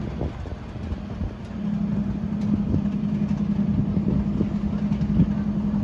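Diesel locomotive running with a low rumble; about a second and a half in, a steady low hum rises and holds.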